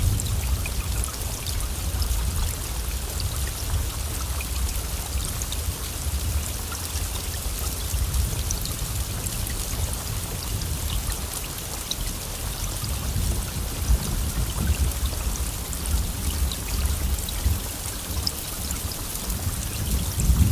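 Steady heavy rain hissing, with scattered sharp drop ticks, over a continuous low rumble.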